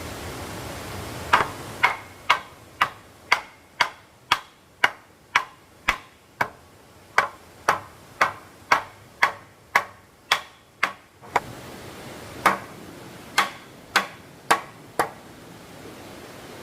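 Hand-tool strikes on wood: sharp, evenly spaced knocks at about two a second for some ten seconds, a short pause, then five more.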